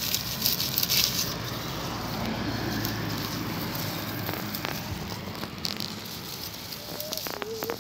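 Rustling and crackling of dry undergrowth being pushed through and handled, with a few sharp clicks.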